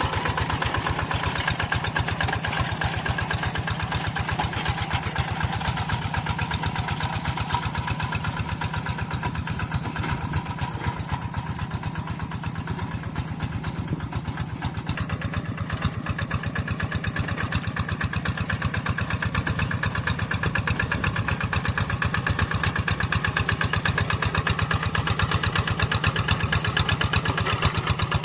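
Tractor engine running steadily with a rapid, even chugging; it eases off slightly about halfway through, then picks up again.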